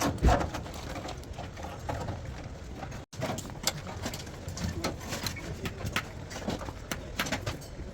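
Workshop noise: scattered light knocks and clicks over a low, steady background hum.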